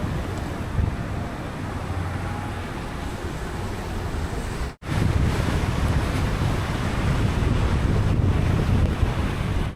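A car driving in rain: a steady hiss of tyres on a wet road and rain, over a low road rumble. The sound drops out for an instant about five seconds in.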